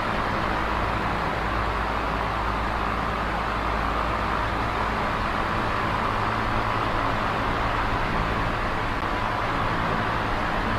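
Small electric oscillating fan running steadily: an even rush of moving air over a low, constant motor hum.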